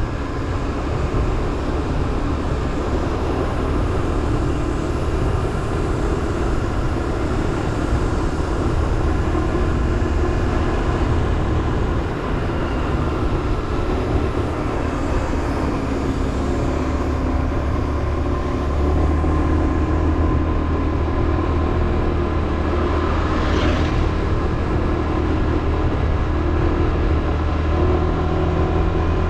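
Motorbike engine running steadily under way, with wind and road noise; its pitch shifts a little as speed changes.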